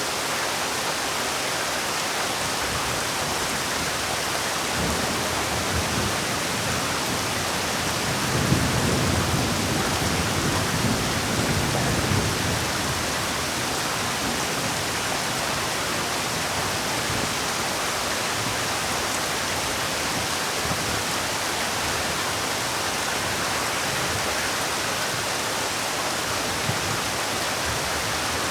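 Heavy rain falling as a steady hiss. About eight seconds in, a low rumble swells for a few seconds.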